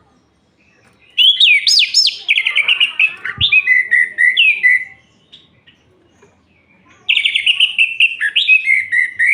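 Orange-headed thrush (anis merah) singing: a phrase of quick, varied whistled notes starting about a second in, a pause of a couple of seconds, then a second phrase starting about seven seconds in.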